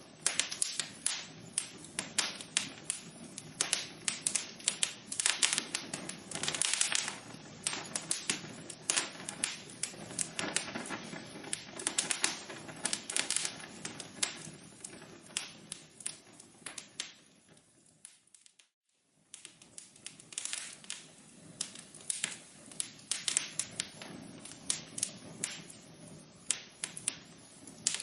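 Wood fire crackling in a fireplace, with dense, irregular pops and snaps. About two-thirds of the way in, the crackling fades out to near silence for about a second, then comes back.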